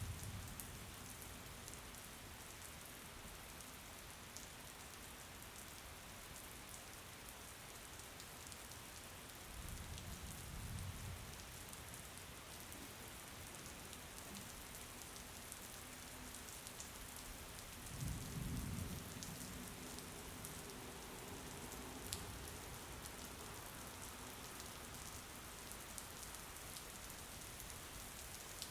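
Steady rain with scattered fine drop ticks. A low rumble swells briefly about ten seconds in and again, louder, about eighteen seconds in, and a single sharp tick comes a few seconds later.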